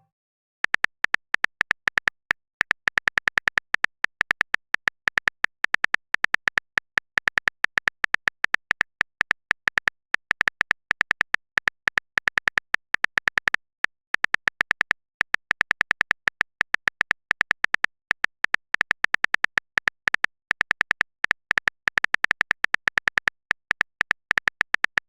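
Rapid keyboard typing clicks, several per second, each a short sharp tick, with a brief pause about halfway through.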